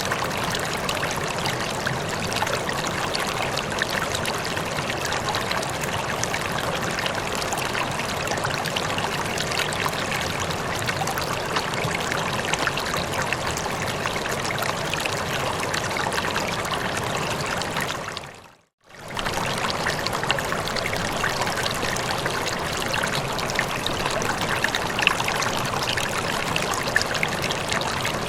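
Running water flowing steadily, like a stream. About two-thirds of the way through it fades out to silence for under a second and comes straight back.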